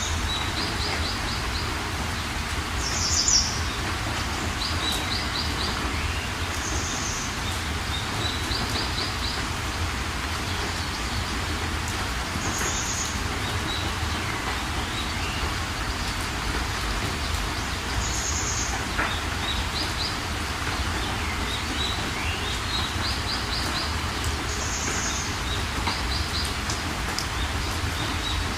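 Steady rain with songbirds calling over it. A short high call repeats every few seconds, alongside quick trills of four or five notes, over a low steady rumble.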